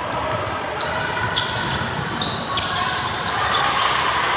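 Basketball bouncing on a hardwood gym floor during play, with short high sneaker squeaks and the steady murmur of a crowd in a large hall.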